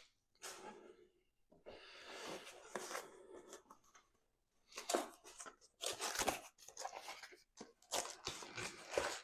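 Irregular rustling and crinkling, like material being handled, with sharper scrapes and crackles about halfway through and near the end.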